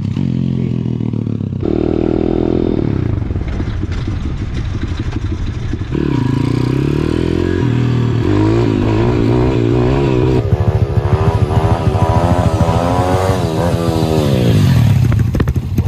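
Single-cylinder pit bike engine being revved up and down repeatedly, its pitch climbing and falling several times, with the biggest swings in the second half.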